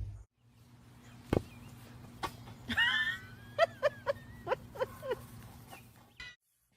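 Dog whimpering: a short wavering high whine about three seconds in, then a quick run of short high yips, over a faint steady hum with a couple of light knocks.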